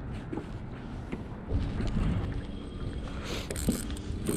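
Low rumble of a fishing boat on wind-blown, choppy water, with a few light knocks.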